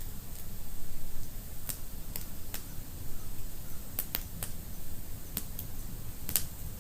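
Wood fire in a fireplace crackling, with sharp irregular pops, several close together about four seconds in and a loud one near the end, over a low steady rumble.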